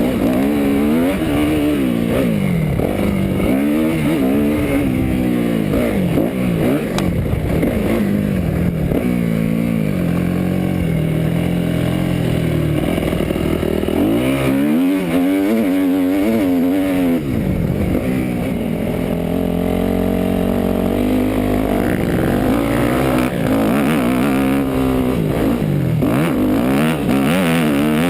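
250cc four-stroke motocross bike engine heard onboard, revving hard and easing off again and again as the rider works the throttle around the track. The pitch rises and falls every second or two.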